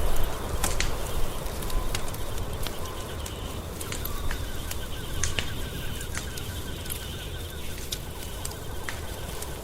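Wood fire crackling, with frequent sharp irregular pops and snaps over a low steady rumble.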